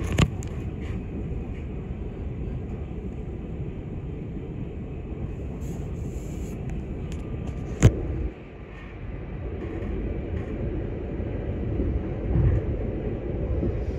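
Passenger train running, heard from inside the carriage: a steady low rumble. There is a sharp click just after the start and a louder one a little past halfway, after which the rumble dips briefly and builds again.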